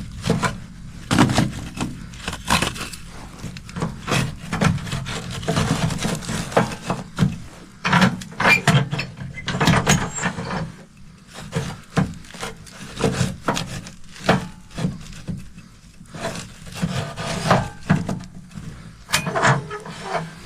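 Pieces of firewood being handled at a wood stove: irregular wooden knocks and clatters with scraping between them.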